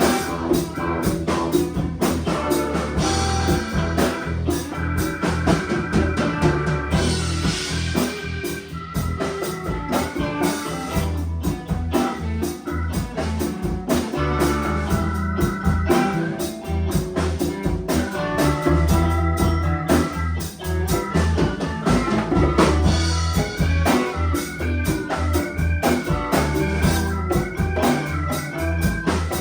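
A band playing an instrumental passage: an organ-like keyboard carrying the melody over drum kit and bass.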